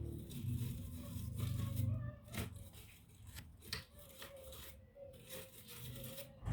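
Handling noises from repair work on a laptop: rubbing and scraping with several sharp clicks.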